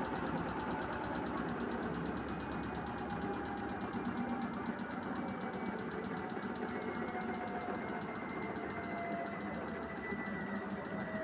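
Primus 12 kg commercial washing machine in its final spin, the drum running with a steady rumble and the motor's whine falling slowly in pitch as the drum slows. The load is very unbalanced.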